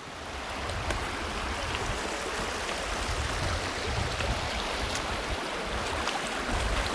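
Mountain river rushing over stones: a steady, even water noise, with an uneven low rumble on the microphone that swells and fades.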